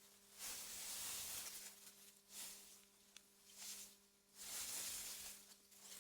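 Soft gusts of wind rustling through meadow grass, swelling about half a second in and again near the end. A faint steady hum runs underneath, and there is a single small tick about three seconds in.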